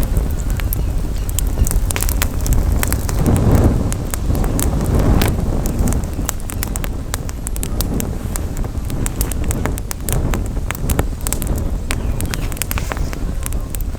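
Campfire crackling, with frequent sharp pops and snaps of burning wood. Wind buffets the microphone as a steady low rumble, with stronger gusts about three and a half and five seconds in.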